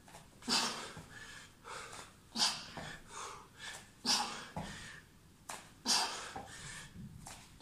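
Heavy breathing of a person exercising hard: a sharp forceful exhale about every two seconds, with quieter breaths between.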